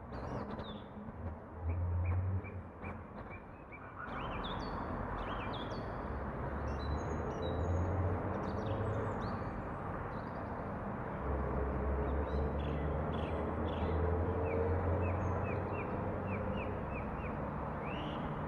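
Outdoor ambience: several small birds chirping and singing in short repeated notes over a steady rushing background. Low gusty rumble of wind on the microphone. The rushing gets louder about four seconds in.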